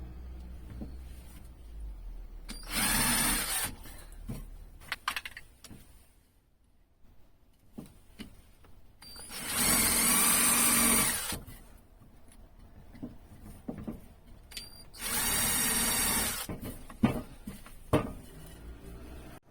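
Power drill running in three short bursts, the middle one the longest, with small knocks of wood and tool handling between them.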